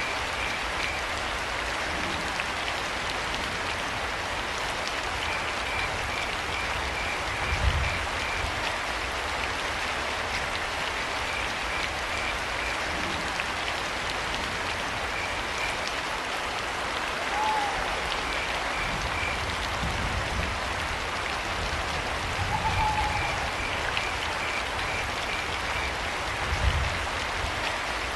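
Steady rain falling, with crickets chirping in short pulsed trains that come and go. Two brief calls sound about five seconds apart in the second half, and a few low thumps rise out of the rain, the loudest about eight seconds in and near the end.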